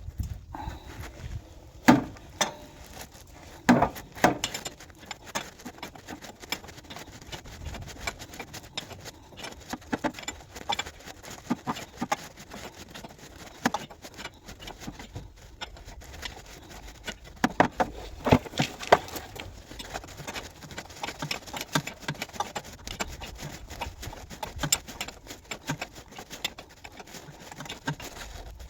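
Irregular metallic clinks, taps and knocks of spanners working on the fuel-tank filler pipe fittings of a 1913 Richard Hornsby portable engine, with a few louder knocks scattered through.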